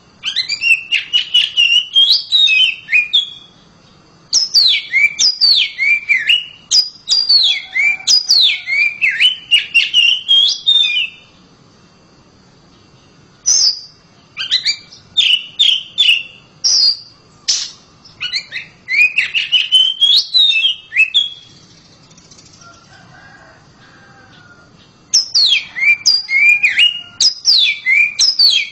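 Oriental magpie-robin (kacer) singing loudly: phrases of fast, high, sweeping whistles mixed with sharp clicking notes, in bursts of a few seconds broken by short pauses.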